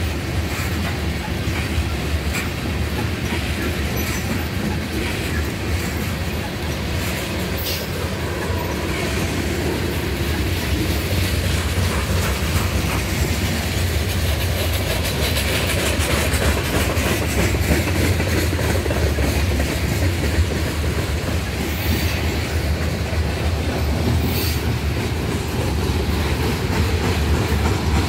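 Freight train's tank cars and covered hoppers rolling past close by, steel wheels rumbling and clacking on the rails. The rumble is steady, with a few sharp clicks.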